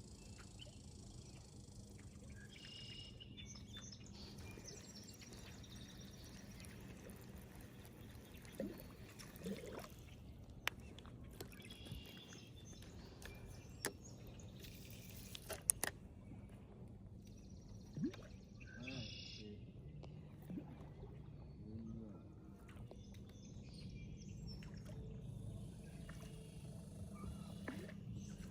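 Outdoor river ambience: birds chirping now and then over a steady low hum, with a few sharp clicks near the middle.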